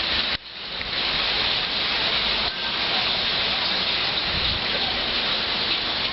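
Thunderstorm noise: a steady, dense rush of heavy rain and wind gusts. It drops away sharply just after the start and swells back within about a second.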